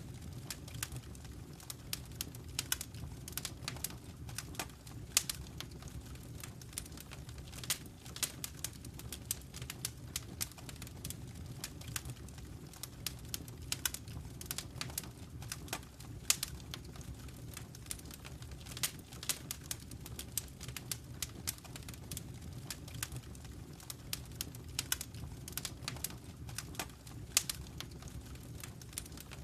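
Fire burning in a fireplace, crackling with many irregular sharp pops over a steady low rumble of the flames.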